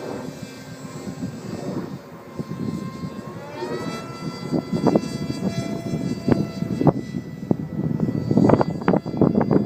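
Electric motor of a foam RC Eurofighter Typhoon model whining in flight, its pitch stepping up about three and a half seconds in as the throttle opens. Gusts of wind buffet the microphone, heaviest near the end.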